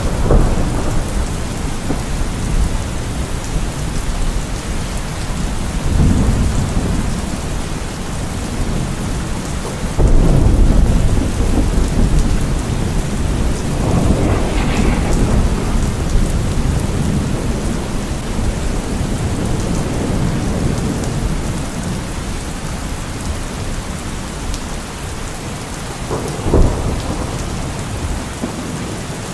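Steady heavy rain with thunder rolling through it several times. The loudest roll starts suddenly about a third of the way in, and a short, sharp thunderclap comes near the end.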